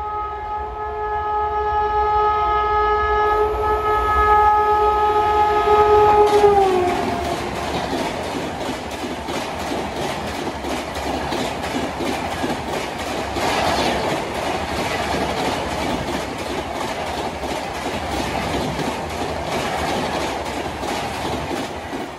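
Indian Railways express train passing at speed: the locomotive's multi-tone horn sounds steadily, then slides down in pitch and cuts off as the locomotive goes by, about six seconds in. A long rake of coaches follows, rumbling past with quick, even clickety-clack of wheels over the rail joints.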